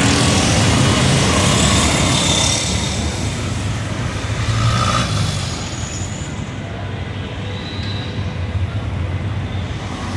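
Road traffic at a busy street: vehicle engines running with a steady low hum and a continuous wash of traffic noise, a little quieter in the second half.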